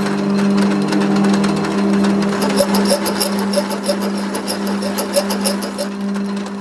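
A workshop machine's electric motor running with a steady hum. From about halfway in, a rapid clicking and rattling of the tool at work joins it.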